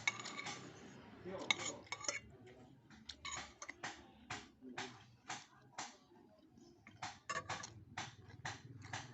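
Cutlery clinking against a bowl in a run of light, irregular clicks about two a second, as food is scooped up to eat.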